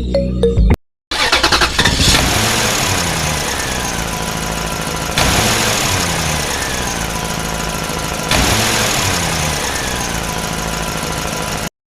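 Engine sound with a revving pattern that repeats about every three seconds, starting abruptly after a brief silence and cutting off sharply near the end.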